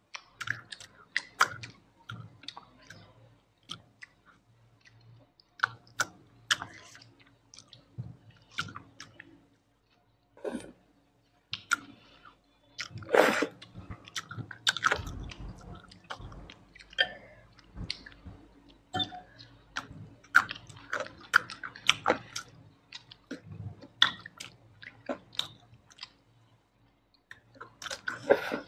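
Close-miked ASMR eating sounds: wet chewing, lip smacks and mouth clicks of people eating saucy rice, noodles and chicken by hand. They come irregularly, denser and louder from about halfway through.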